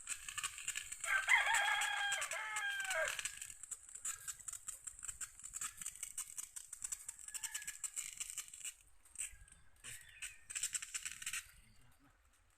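A rooster crowing once, starting about a second in and lasting about two seconds, its call dropping in pitch at the end. A steady high hiss and scattered clicks and scrapes run underneath.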